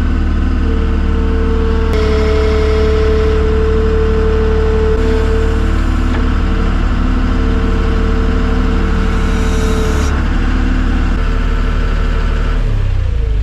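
An engine running steadily, its tone shifting slightly about two seconds in and again near the end.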